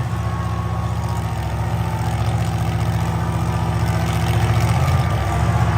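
Monster truck engine idling with a low, evenly pulsing note that grows slightly louder.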